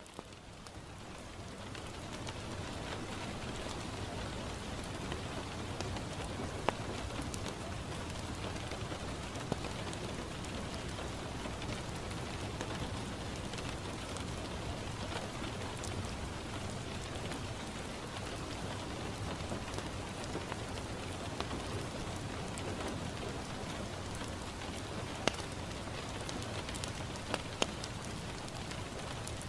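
Steady rain pattering on a window, fading in over the first two seconds, with a few sharp pops from a crackling wood fire.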